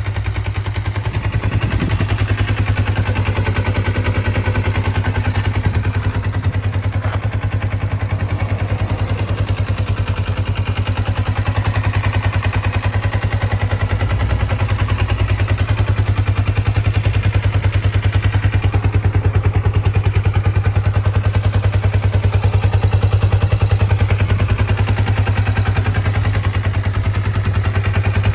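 Kawasaki ZZR250's 248 cc parallel-twin four-stroke engine idling steadily, with an even, rapid exhaust pulse.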